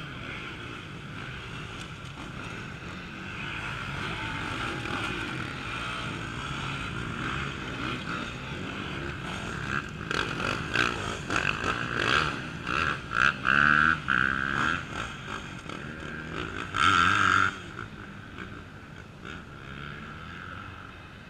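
Off-road enduro motorcycle engines running steadily and then revving in choppy bursts from about halfway through. The loudest, short burst of throttle comes near the end.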